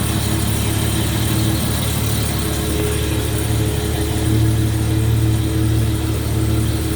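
1973 Mercedes 280 CE's 2.8-litre twin-cam straight-six idling steadily, a little louder about four seconds in.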